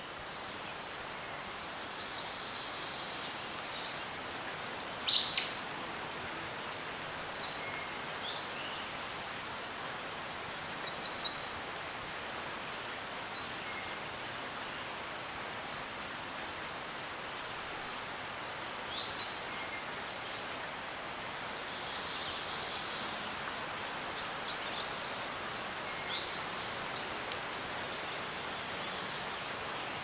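Songbirds singing short, high chirping phrases every few seconds, irregularly spaced, over a steady outdoor background hiss.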